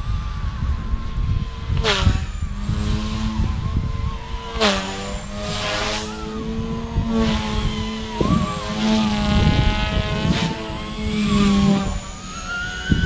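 XK K130 micro RC helicopter's electric motor and rotors whining at high head speed, the pitch dipping and rising as it manoeuvres. Sharp swooshes come about 2 and 5 seconds in.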